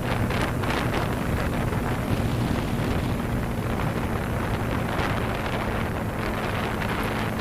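Motorcycle engine running at a steady speed while riding, with heavy wind rushing over the microphone.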